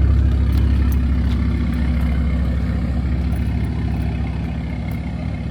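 Car engine idling with a steady low drone that eases off slightly in loudness.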